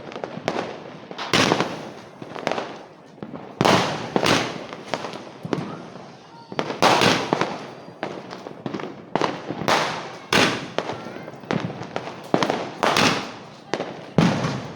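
Diwali firecrackers going off one after another: a dozen or more sharp bangs at uneven intervals, roughly one a second, each dying away quickly.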